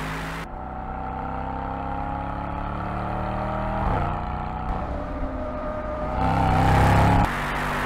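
Mercedes-AMG E63's 4.0-litre twin-turbo V8 accelerating, its pitch rising, in several stretches joined by abrupt cuts. It is loudest just before the final cut near the end.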